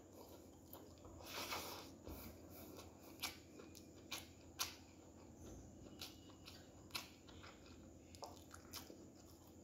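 Faint chewing of a mouthful of chicken biryani, with scattered soft mouth clicks and smacks at an irregular pace, over a low steady hum.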